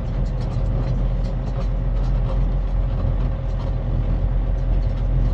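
Semi-truck's diesel engine running steadily under way, heard from inside the cab as a constant low rumble with a faint steady hum and light rattles.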